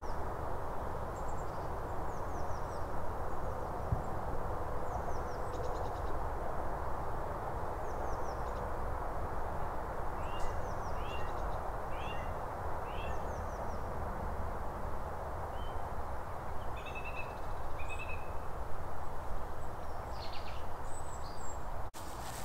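Small birds chirping and calling over a steady low rushing background, with a quick series of short falling calls about halfway through.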